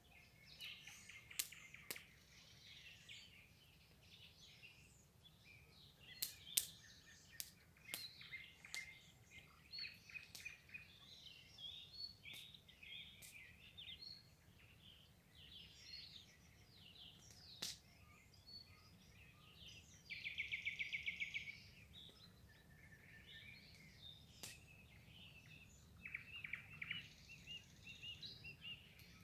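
Several songbirds singing and calling in short chirps and sharp ticks. About twenty seconds in comes a loud, rapid, even trill lasting about a second and a half.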